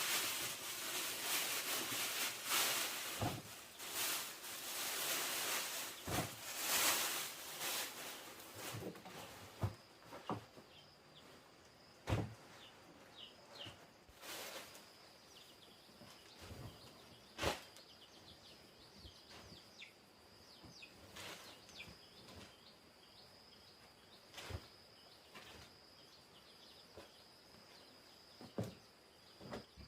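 Rustling noise for the first several seconds. Then scattered knocks and clicks over a steady high-pitched insect drone.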